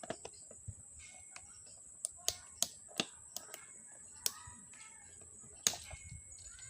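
Irregular sharp clicks and taps, about a dozen, from an electric fan motor being taken apart by hand to get at its bushings; the loudest tap comes near the end.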